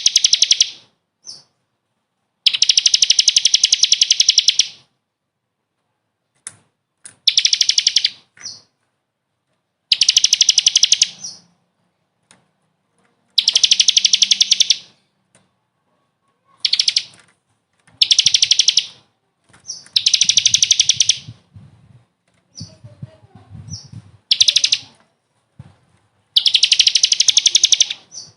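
A songbird singing a fast, rattling trill in repeated phrases of one to two seconds, about ten of them, with short silences between.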